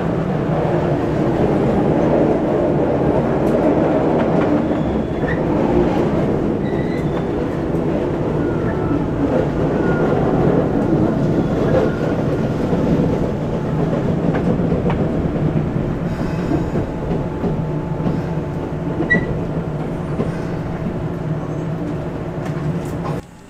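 Keisei 3400 series commuter train running on rails, heard from inside the car: a steady running hum with wheel clatter and a few brief high squeals. It cuts off suddenly near the end.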